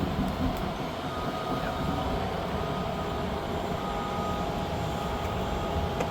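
Wind noise on the microphone: a steady low rumble with no clear events.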